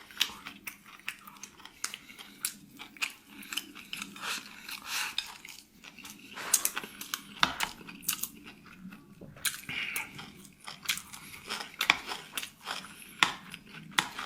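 A person chewing and crunching food close to the microphone, with many irregular crisp bites and clicks.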